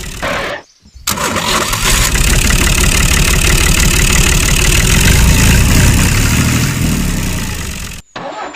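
An engine running loudly, cut in abruptly after a short silent gap about a second in and cut off suddenly near the end.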